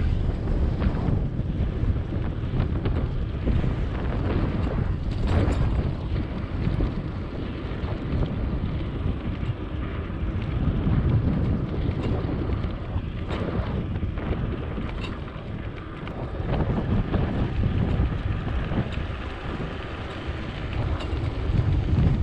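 Wind buffeting the microphone: an uneven low rumble that swells and eases with the gusts.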